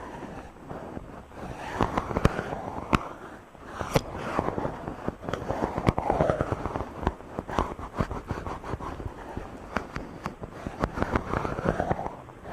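Fingers rubbing directly on a microphone: a dense crackling scratch full of small sharp clicks, with rustling swells that come and go.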